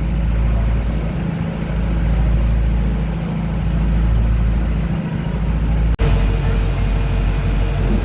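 A ferry's engine running steadily with a deep, slowly wavering drone. About six seconds in, it cuts abruptly to another steady engine drone that carries a higher hum.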